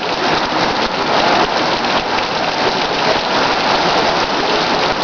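Heavy rain pouring down and pattering on surfaces in a steady downpour.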